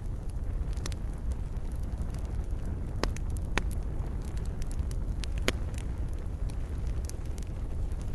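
Wood fire burning with a steady low rumble and scattered sharp crackles and pops, a few louder snaps about three, three and a half and five and a half seconds in.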